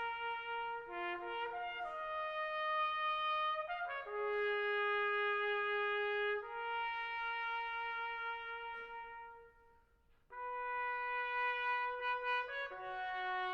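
Brass music, a trumpet-led melody of slow, held notes, with a short break about ten seconds in.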